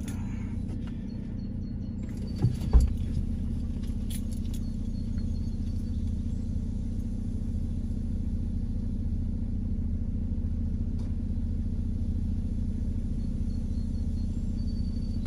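A stopped car's engine idling, a steady low hum heard from inside the cabin, with a sharp thump about three seconds in.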